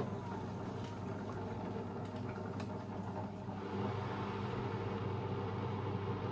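Beko WMB 71643 PTE washing machine running, its brushed drive motor making a steady hum, which grows a little louder about three and a half seconds in.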